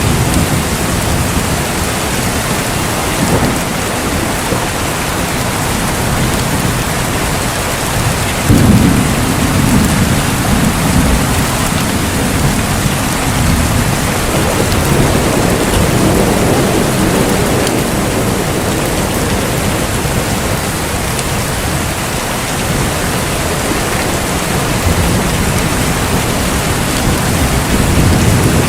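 Steady heavy rain, with thunder breaking in a sudden crack about a third of the way in and rolling on in low rumbles for several seconds, and more rumbling later.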